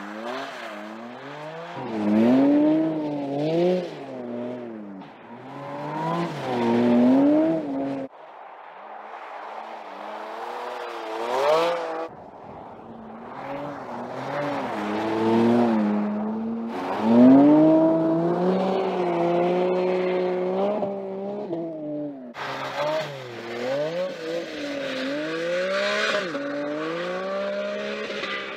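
Porsche 718 Cayman GT4 RS's flat-six engine revving up and down again and again as the car drifts sideways on snow and ice, heard in several clips joined by abrupt cuts.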